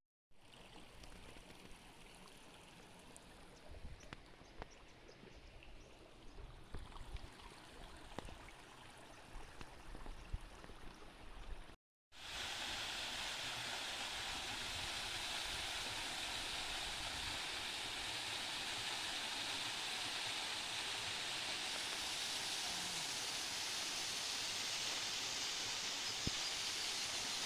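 Rushing water of a stream cascade. For about the first twelve seconds it is faint, with a low rumble and scattered small ticks. After a sudden cut it becomes a loud, steady rush that lasts to the end.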